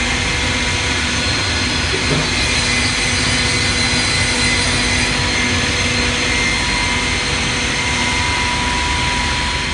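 Tai Chan TPS 10-SH automatic panel saw running at cutting speed: a loud, steady machine noise with several steady tones running through it.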